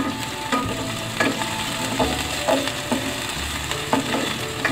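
Onion and minced garlic sizzling in hot olive oil in a stainless steel pan during sautéing. A spatula stirs them and scrapes and knocks against the pan about every half second.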